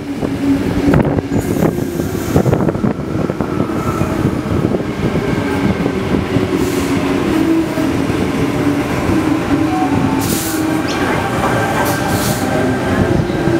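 Sydney Trains Tangara electric train running in alongside the platform and slowing, with a steady whine from its traction gear over the rumble of its wheels on the rails.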